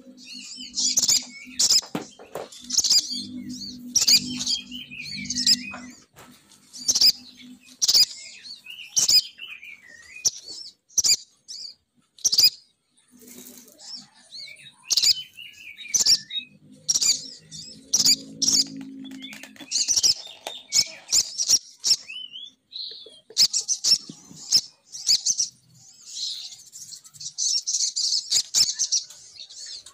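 Female sogon bird lure call: fast high chirps and short trills repeated in quick series, running together into a dense stretch of chirping near the end. A low hum comes and goes underneath.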